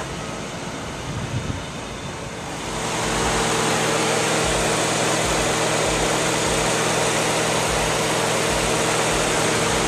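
Lexus GS 430's 4.3-litre V8 idling steadily, its even hum over a steady hiss, growing louder about three seconds in.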